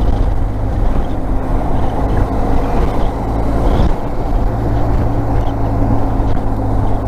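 Motorcycle engine running steadily while riding along a highway, with a constant low hum and road and wind rumble; the engine note drops briefly about four seconds in.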